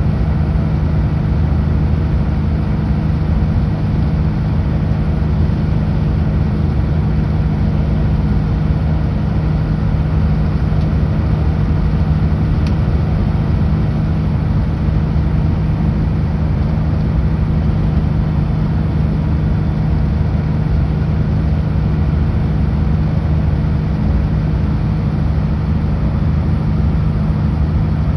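Kenworth W900L truck's diesel engine and road noise at a steady highway cruise: a constant low drone that holds level throughout.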